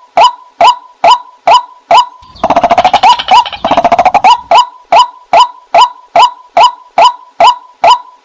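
White-breasted waterhen calling: a steady series of sharp, loud 'kwak' notes about two a second. About two and a half seconds in they give way to a fast rattling chatter lasting about two seconds, then the 'kwak' notes resume.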